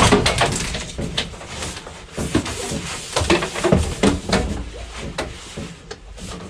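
Irregular clicks, knocks and clatter of plumbing parts and tools being handled: PEX pipe, fittings and crimp tools picked up and set down.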